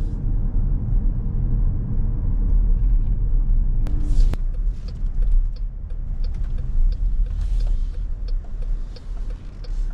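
Steady low rumble of a car driving, heard from inside the cabin, with a few light clicks and knocks over it.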